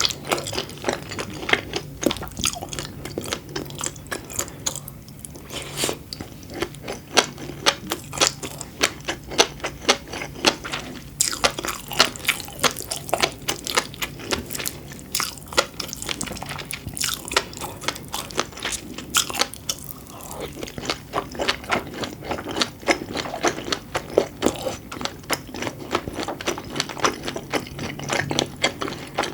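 Close-miked chewing and biting of food, with many small, crisp, irregular pops and clicks throughout.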